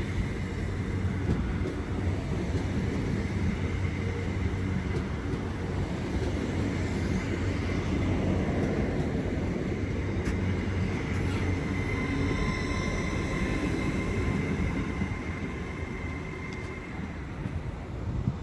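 Avanti West Coast Class 805 bi-mode train running slowly in the platform: a steady rumble with a thin high whine, easing slightly near the end.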